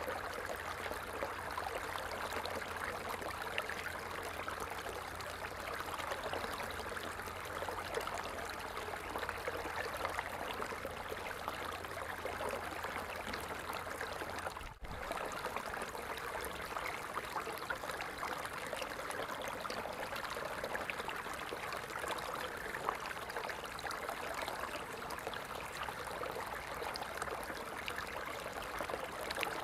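Steady sound of falling water, like a stream or small cascade, with fine splashing throughout. It drops out very briefly about halfway through, and a low rumble under it stops at that point.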